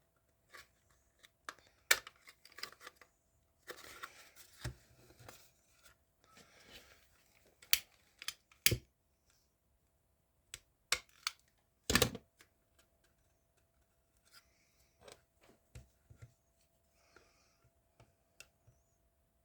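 Plastic model car parts being pried at by hand: scattered sharp clicks and snaps with short bouts of scraping, the loudest snap about twelve seconds in, as glued pieces are worked loose.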